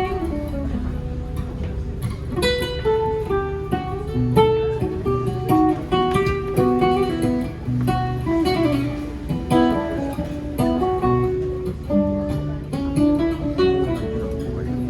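Music played on acoustic guitar: a run of plucked and strummed notes, one after another.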